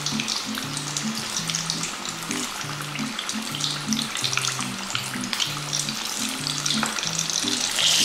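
Breaded chicken wings deep-frying in hot oil: a steady crackling sizzle with many tiny pops. A soft bossa nova bass line runs beneath it.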